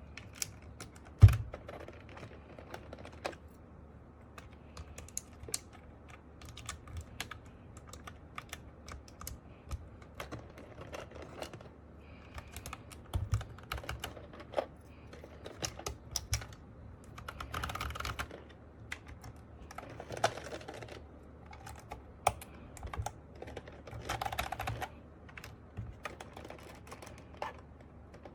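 Plastic clicks and clacks of keycaps being handled and pressed onto a mechanical keyboard's switches, irregular, with one sharp loud click about a second in and a few short bursts of clattering as loose keycaps are sorted.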